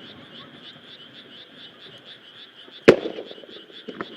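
A single aerial firework shell bursts with a sharp boom about three seconds in, followed by a smaller crack near the end. Underneath runs a steady chorus of frogs, pulsing about six times a second.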